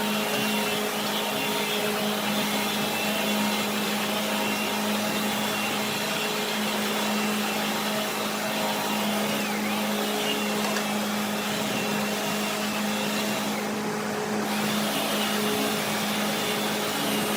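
Woodworking machine running steadily: a constant motor hum with a hiss over it, the hiss dipping briefly near the end.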